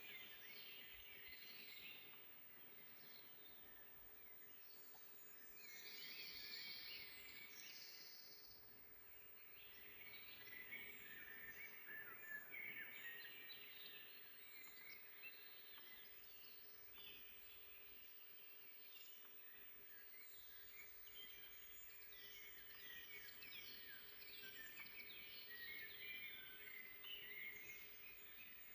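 Faint forest birdsong: several small birds singing and calling at once, with many short overlapping chirps and trills throughout.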